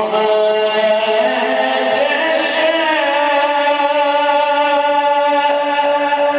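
A Quran reciter's voice drawing out one long melodic phrase in chanted recitation (tajweed): the pitch winds up and down for about three seconds, then settles on a single held note.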